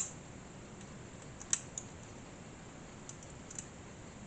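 Light clicks and taps of small model parts and a small screwdriver being handled: a sharp click right at the start, then a handful of softer, scattered ticks.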